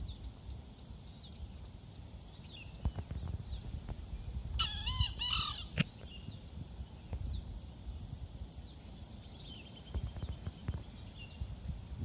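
A wild junglefowl gives one short crow about halfway through, over a steady high insect drone. A single sharp click follows right after the crow.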